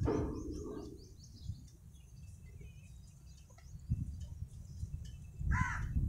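Birds chirping: a quick run of short, high, falling chirps in the first second, a few faint chirps after, and a louder, lower call just before the end, over a steady low rumble.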